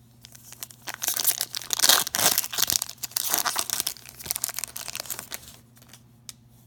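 Foil wrapper of a hockey trading-card pack being torn open and crinkled as the cards are pulled out. The crackling runs for about four seconds and stops about a second before the end.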